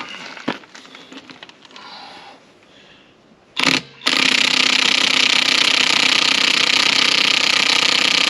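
Impact wrench hammering on a tractor wheel's lug nuts: a short blip about three and a half seconds in, then a steady, loud rattle from about four seconds in.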